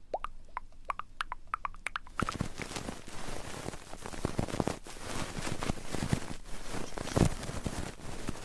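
Close-miked ASMR sounds: a quick run of small rising pops for about the first two seconds, then dense scratchy rubbing and rustling right on the microphone, as in ASMR ear rubbing.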